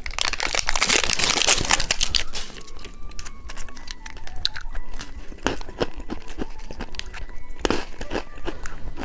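Plastic candy packaging crinkling and tearing for about the first two and a half seconds, then scattered sharp clicks and crackles of the wrapper and small plastic pieces being handled.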